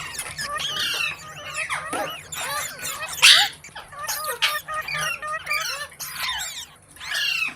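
Parrot chattering in a quick run of whistles and chirps, with one loud harsh squawk about three seconds in.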